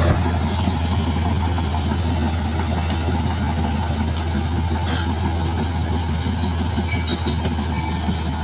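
Bulldozer's diesel engine running steadily under load, with short high-pitched squeals from its steel tracks now and then.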